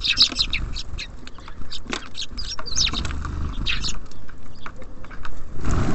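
Small birds at a feeder: many short high chirps and calls, mixed with quick taps and clicks, over a low steady rumble. A short rush of noise comes near the end.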